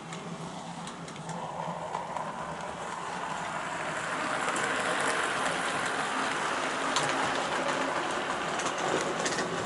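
OO gauge model locomotive running along the track toward the microphone: a steady whirring rumble of motor and wheels on rail that grows gradually louder, with a few faint clicks over the rail joints.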